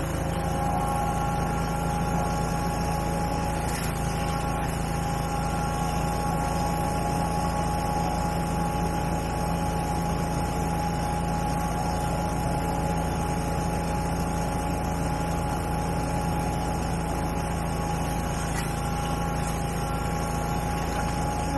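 Engine running steadily at one speed, a low drone with a steady whine above it and no change in pitch.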